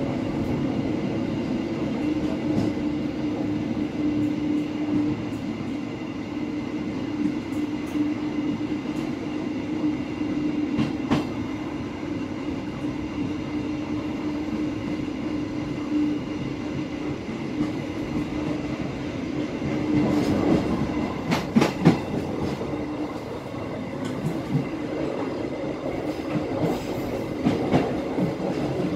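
KA Bengawan passenger train running along the track, heard from the rear of the train: a steady rumbling hum with a held low tone, and the wheels clacking over rail joints, in a quick cluster about two-thirds of the way through and again near the end.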